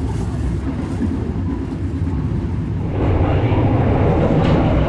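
Steady low rumble of a moving passenger train heard from inside the carriage, growing louder and fuller about three seconds in.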